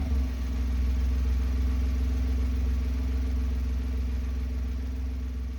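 Honda S660's turbocharged 658 cc three-cylinder engine idling steadily through an HKS Hi-Power Muffler Spec-L aftermarket exhaust, settled after a rev, its level slowly easing near the end.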